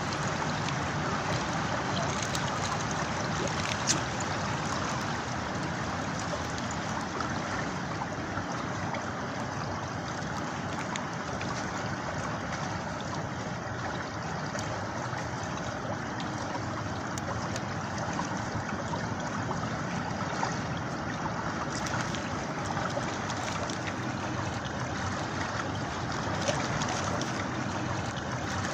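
River water flowing steadily, with scattered sharp pops and cracks from a campfire.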